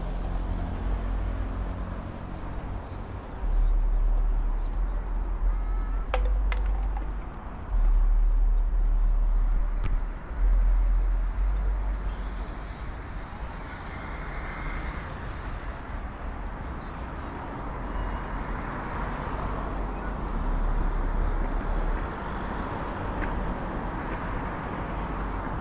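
Outdoor urban ambience: a steady noisy background with a deep rumble that swells and drops several times, and faint voices.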